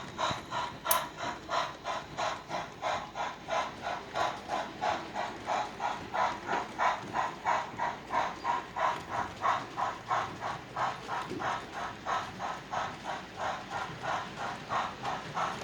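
Sound-equipped model steam locomotive chuffing steadily, about three hissing chuffs a second.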